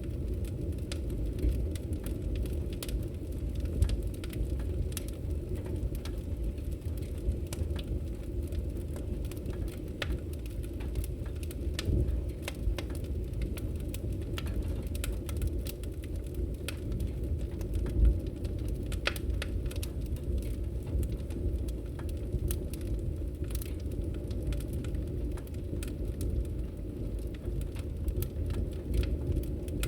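Wood fire burning in a fireplace: a steady low rumble of flames with frequent sharp crackles and pops, one louder pop about 18 seconds in.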